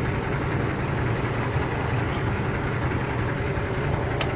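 A truck engine idling steadily, with a single sharp click near the end.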